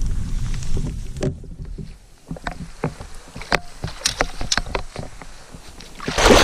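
Wind rumbling on the microphone, then a run of light irregular clicks and knocks from the fishing kayak and its tackle; a sudden loud rush of noise begins near the end.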